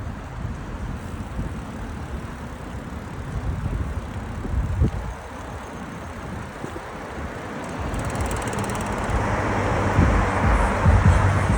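Wind buffeting the microphone of a moving bicycle, heard as low rumbling gusts, with road traffic noise. A broad hiss swells in the last few seconds, as from a vehicle passing.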